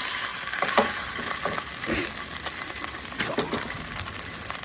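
Food sizzling in a hot pan, a steady crackling hiss, with a few light clicks from handling or utensils.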